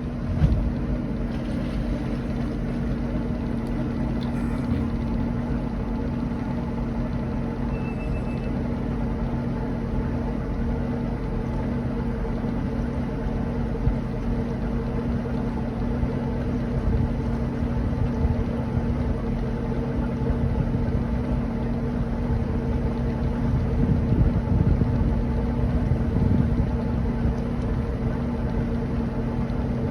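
A 26-foot Rendezvous boat's engine running steadily under way, a constant hum over a low rushing noise. There is a single knock about half a second in.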